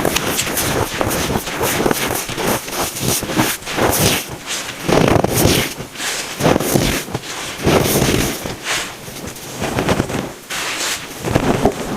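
Compacted baking soda crunching and squeaking as it is crushed, a dense run of short crackles with louder crunches every second or so.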